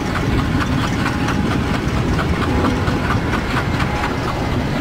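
Train running on rails: a steady heavy rumble with a quick, regular clatter of wheels over the rail joints.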